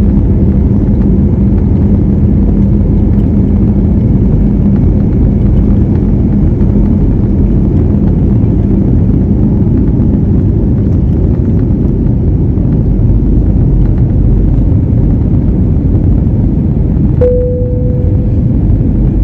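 Jet airliner on the take-off runway: a loud, steady rumble of engines and rolling noise. Near the end a single short ringing ding sounds and dies away.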